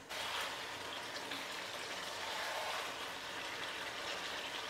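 Chicken curry masala sizzling in hot mustard oil in a wok while it is stirred with a spatula, a steady crackling hiss. The oil has been cooked out until it separates from the masala.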